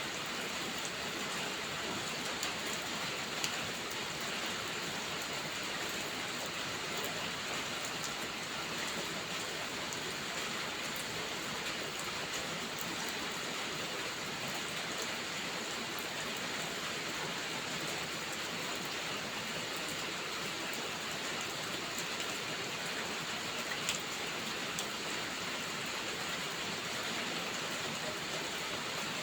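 Steady, unbroken rainfall, with occasional faint ticks of single drops.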